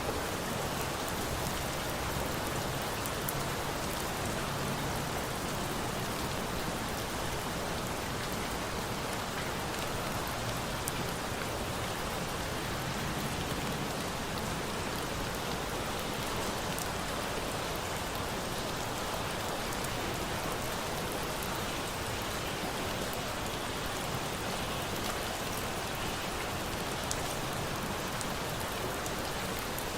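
Steady rain falling on a surface, an even hiss of many drops, with a few faint sharp ticks scattered through.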